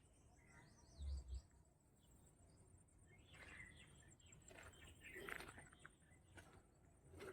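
Faint bird chirps against a quiet outdoor background, with a soft low thump about a second in.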